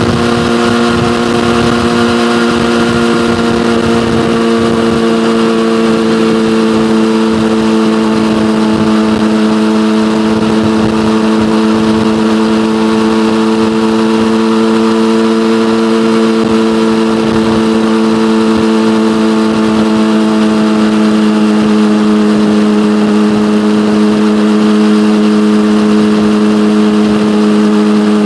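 Yamaha motorcycle engine through an SC-Project aftermarket exhaust, running steadily at a nearly constant engine speed while cruising.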